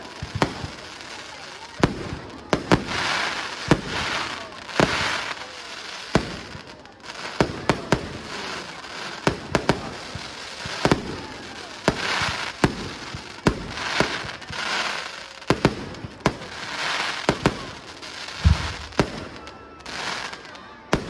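Fireworks display: many sharp bangs of bursting shells, sometimes several close together, with repeated swells of crackling from crackle-effect bursts lasting about a second each.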